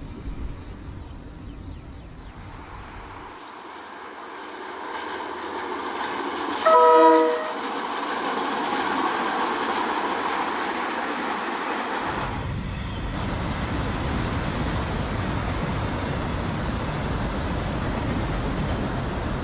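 A KiwiRail DL-class diesel-electric locomotive hauling a log train passes, its running noise swelling, with one short blast of its multi-tone horn about seven seconds in. After a cut near twelve seconds, a steady low rumbling noise takes over.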